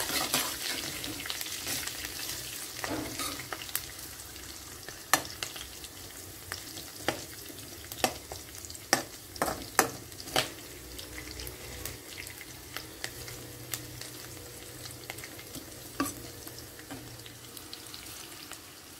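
Sliced onion and green chillies sizzling in hot oil in a kadai, the tempering for upma, while a steel spatula stirs them. The spatula clinks sharply against the pan a dozen or so times, most of them in a run about a third of the way in.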